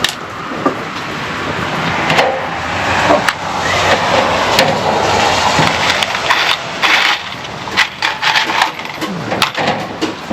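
Woodworking noise: knocks and clatter of wooden boards being handled and cut, over a steady rushing noise.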